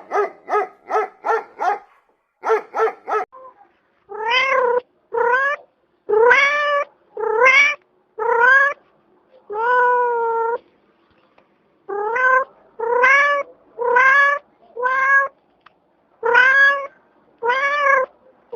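A cat meowing over and over, each meow rising and then falling in pitch. It opens with a quick run of short, clipped calls, about five a second.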